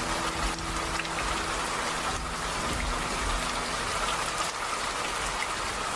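Steady rain falling, an even hiss, with a low rumble under it in the first half.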